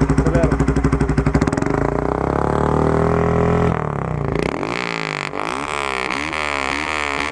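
Straight-piped 2011 Honda Fan 150's single-cylinder engine idling with a fast, even beat, then revved up in one long rising pull. About halfway through it drops back and is blipped up and down about five times in quick succession.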